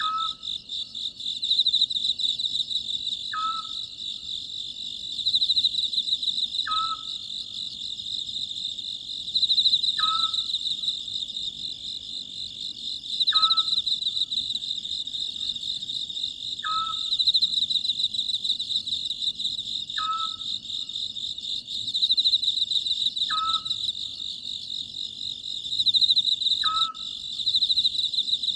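A steady, pulsing cricket chorus with an Oriental scops owl calling over it: a short note repeated evenly about every three seconds, nine times.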